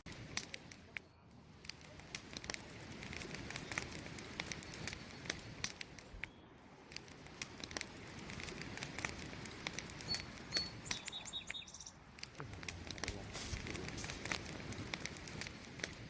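Wood campfire crackling, with sharp snaps and pops scattered irregularly over the soft, steady noise of the burning wood. About ten seconds in come a few brief high-pitched tones.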